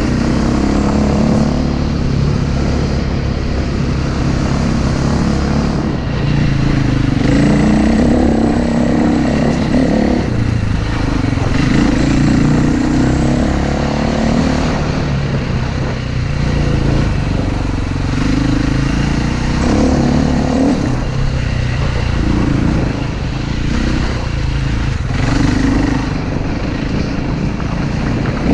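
Enduro motorcycle engine running as the bike is ridden over a rough dirt track. It rises and falls every few seconds as the throttle is opened and closed.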